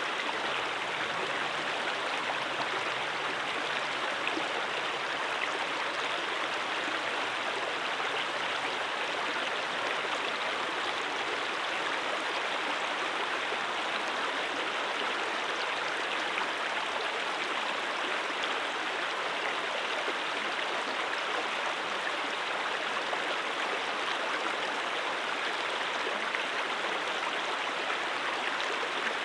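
Mountain stream flowing steadily over rocks, a constant rushing and babbling of water.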